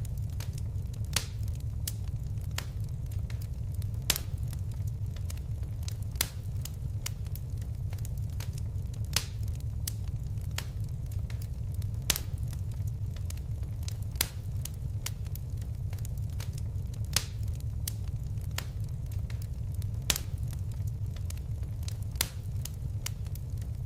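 Crackling fire: a steady low rush of burning with sharp crackles and pops scattered throughout, a louder pop every couple of seconds.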